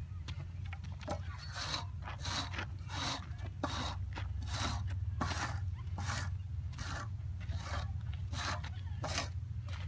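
A rake scraping moistened clay across a pitching mound in repeated strokes, a little more than one a second, pulling loose material into the worn holes.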